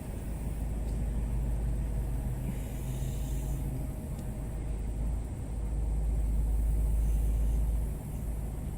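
Low, steady rumble of a vehicle engine and road noise heard from inside the cab, growing a little louder past the middle and then easing off near the end.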